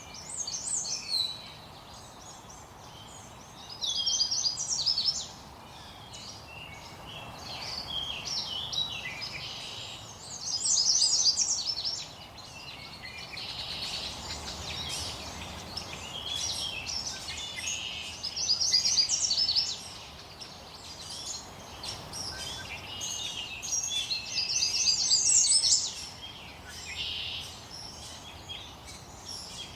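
Songbirds singing short, rapid phrases of high repeated notes every few seconds over a steady background hiss.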